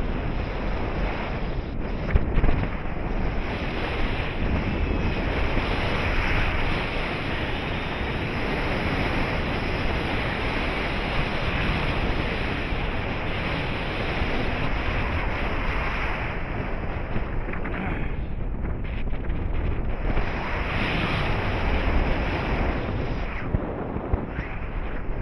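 Wind rushing over the microphone of a camera flying under a paraglider, a steady noise that varies with gusts and eases for a couple of seconds about three-quarters of the way through.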